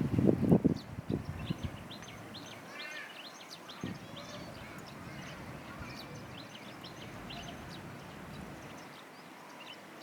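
Wild birds chirping, many short high calls overlapping throughout, over a steady outdoor background. A brief low rumble sounds in the first second.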